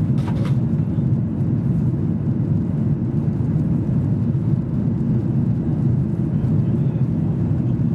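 Steady low rumble of a Boeing 737-800's CFM56-7B engines and airflow, heard inside the passenger cabin.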